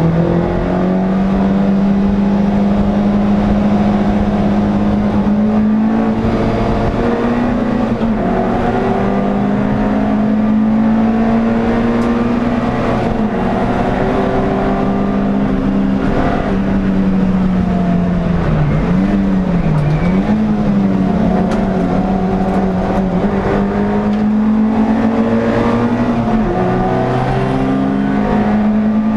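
Air-cooled engine of an NSU TT race car running hard at racing speed, heard from inside the car. The engine note holds high, steps through gear changes, and wavers down and back up about two-thirds of the way through.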